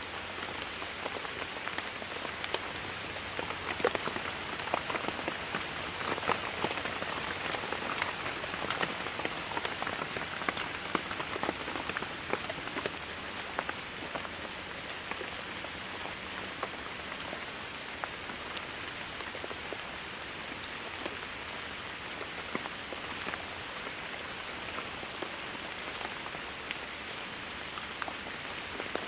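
Steady rainfall: a dense, even hiss with many individual drops ticking sharply on a surface, the drop hits a little busier in the first half.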